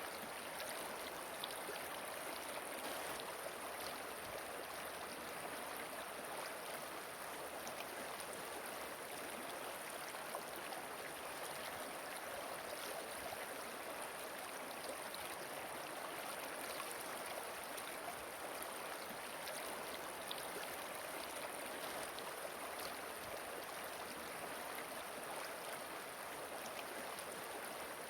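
Flowing water rushing steadily and evenly, a recorded stream or falls with no change in level.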